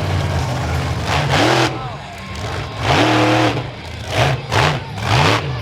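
Monster truck engine running loud, with repeated quick blips of the throttle in the last second or so.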